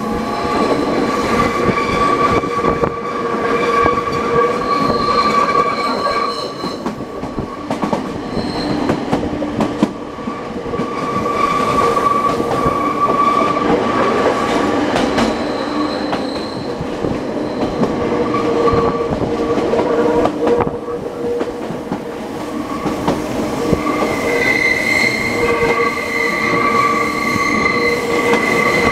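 Nankai Koya Line electric train running through the mountain section, heard from inside the car: a steady rumble of wheels on rail, with high, steady wheel squeal that rises and fades away several times as the train takes the line's tight curves.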